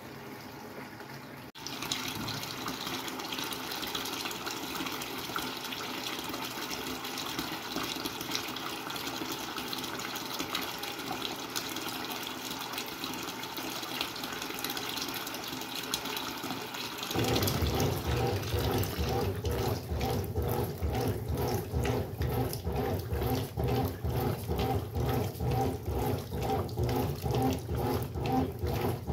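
Brastemp Sexto Sentido 8 kg washing machine filling with water: a steady rushing hiss starts about two seconds in. More than halfway through, its motor starts with a low hum and a regular, repeating pulse over the running water, the wash action beginning.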